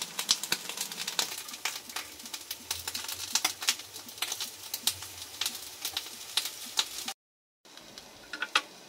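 Eggplant slices frying in hot oil on a ridged grill pan: a steady sizzle with dense crackling and popping. It breaks off for a moment about seven seconds in, then goes on more faintly.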